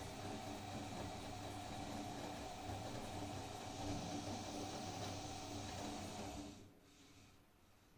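Blomberg washing machine's drum motor running with a steady whine, then stopping about six and a half seconds in as the drum pauses between turns of the wash cycle.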